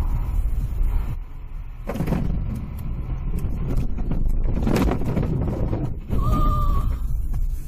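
Vehicle engine and road rumble as picked up by a dashcam, with two loud rushing swells of noise about two and five seconds in, and a brief steady beep or horn-like tone near the end.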